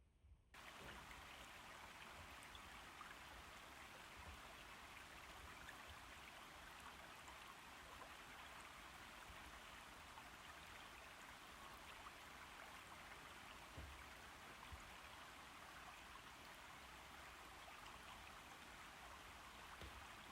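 Faint steady rain falling, an even hiss with scattered soft ticks of drops, coming in suddenly about half a second in.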